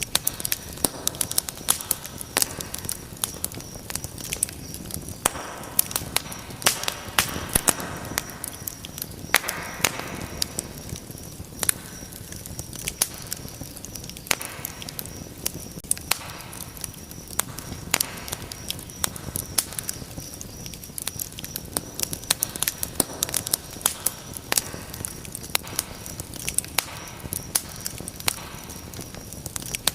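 Wood fire crackling, with frequent irregular sharp pops and snaps of varying loudness over a soft steady hiss of the flames.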